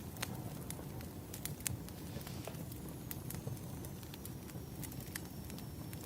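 Wood fire crackling: irregular sharp pops and snaps over a low steady rumble. A faint high whistle slowly drops in pitch from about halfway through.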